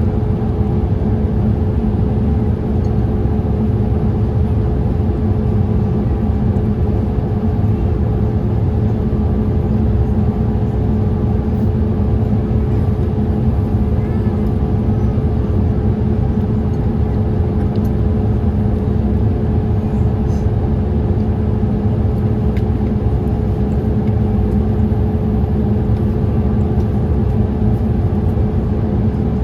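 Steady cabin noise of a Boeing 787-8 airliner in flight: a deep, even rush of air and engine noise with a steady hum running through it.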